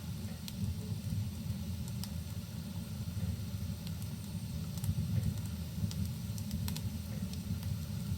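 Wood fire burning in a fireplace: a steady low rumble with a handful of sharp, scattered crackling pops, mixed with steady rain.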